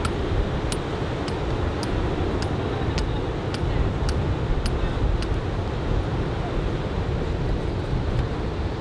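Surf breaking and wind buffeting the microphone in a steady rushing din, with a run of light high ticks about two a second in the first half.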